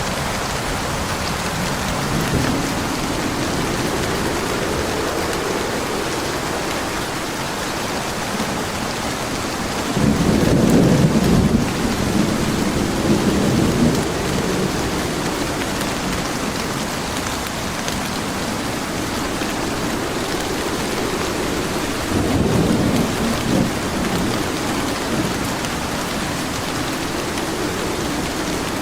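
Steady rain falling, with thunder rumbling through it: a faint roll a couple of seconds in, the loudest peal starting about ten seconds in and lasting several seconds, and another roll about two-thirds of the way through.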